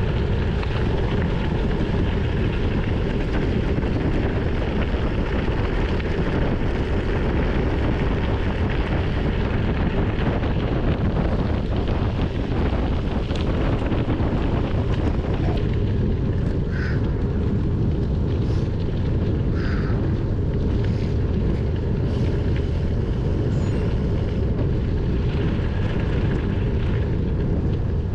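Steady low wind rumble on a GoPro action camera's microphone while riding a bicycle at speed, with a few faint short chirps past the middle.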